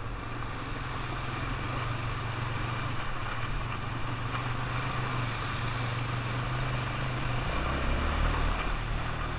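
ATV engine running steadily while riding; about seven and a half seconds in, its note drops lower.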